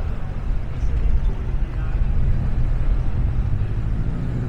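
Steady low rumble of a motor vehicle's engine running close by.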